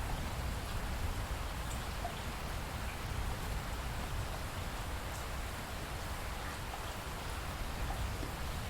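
Steady rain falling, a continuous even hiss over a low rumble, with a few faint scattered drop ticks.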